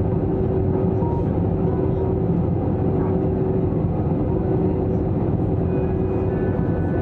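Steady cabin noise inside an Airbus A321-200 airliner in flight: a constant deep drone of engines and airflow with a steady hum.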